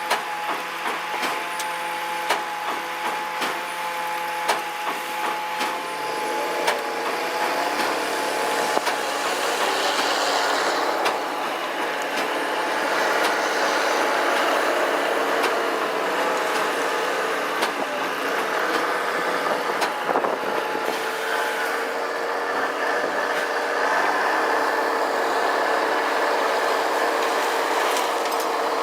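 Heavy truck running steadily, with many sharp clicks and knocks over the first several seconds and a louder rushing noise building from about a third of the way in.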